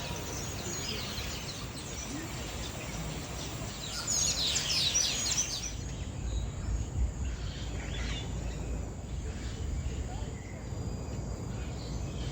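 Birds chirping and calling over a low steady rumble, with a loud burst of rapid, falling high chirps about four seconds in that lasts under two seconds.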